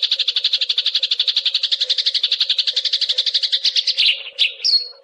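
Eurasian tree sparrow song: a fast, dense trill of more than a dozen chirps a second, breaking into a few separate chirps near the end. A faint steady hum runs underneath.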